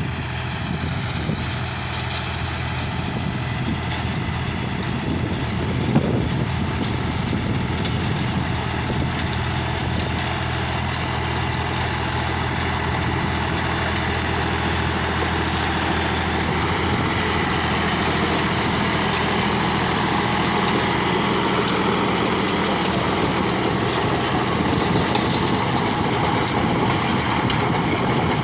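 John Deere 5038D tractor engine running steadily while driving a Rotoking rotavator, with a single sharp knock about six seconds in.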